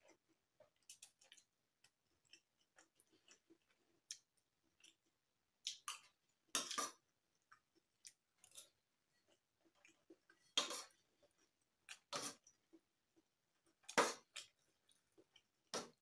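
Close mouth sounds of someone eating spicy instant noodles: soft, irregular wet chewing clicks, broken by four louder short noisy sounds spread through.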